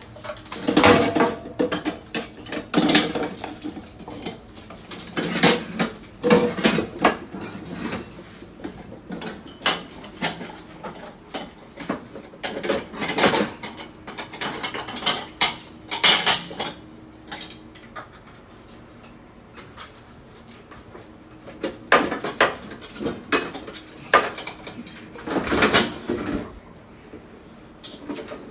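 Dishes and utensils clattering and clinking in irregular bursts, with a quieter spell in the middle.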